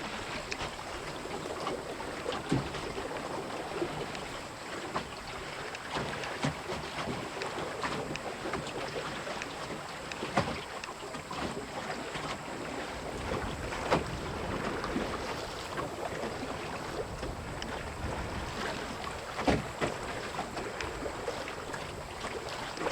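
Water rushing and splashing along the hull of a small wooden Melonseed sailing skiff under way in a strong, gusty wind, with wind buffeting the microphone. Five or so sharper slaps of waves against the hull stand out.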